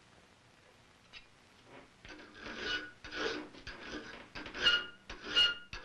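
Hand file rasping in repeated back-and-forth strokes, about seven of them starting two seconds in and growing louder, with a thin ringing on the strongest strokes: the threads of a hand-made iron wood screw being filed.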